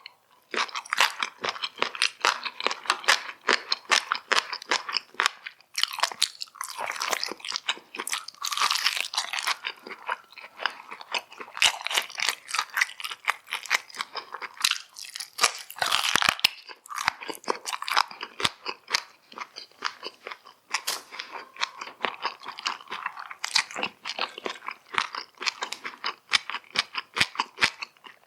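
Close-miked chewing and biting of food: a dense run of rapid sharp clicks and smacks, with a few brief pauses.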